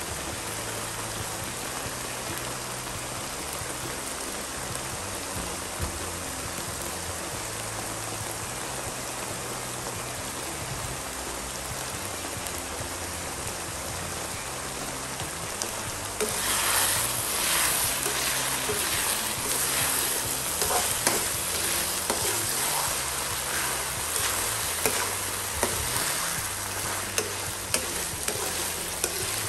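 Milkfish, potato and carrot stuffing sizzling in a nonstick pan. About halfway through the sizzle gets louder, and a metal spatula scrapes and clicks against the pan as the mixture is stirred.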